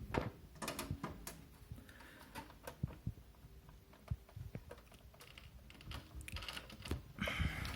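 Irregular plastic clicks and taps from a Zalman Z11 Neo PC case's front panel as its tight retaining clips are squeezed and pried with a screwdriver, with a scraping rub near the end.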